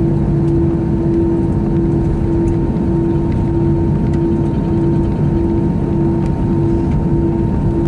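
Airbus A321 cabin noise with the jet engines running: a steady drone with a constant low hum and a fainter high tone throughout.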